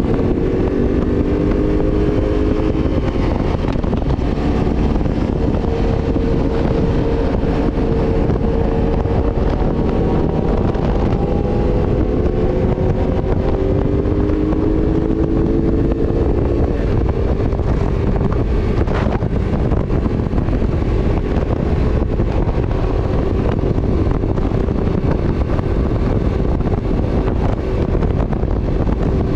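Motorcycle engine running under way, its pitch drifting slowly up and down for the first half and then holding steadier, under heavy wind buffeting on the microphone.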